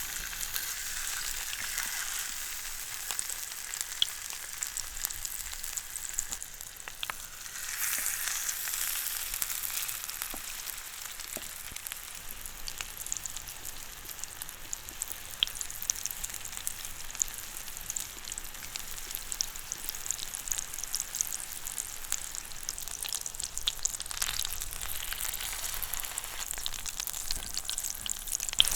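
Food frying in a pan: a steady sizzling hiss with small scattered pops.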